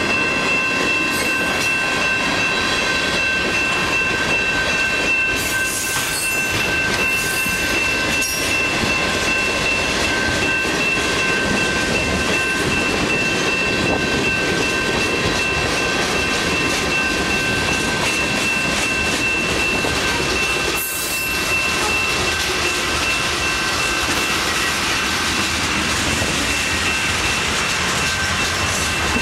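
A train's cars rolling past on the rails: a steady, loud rumble and clatter of wheels with a continuous high-pitched ringing squeal from the wheels.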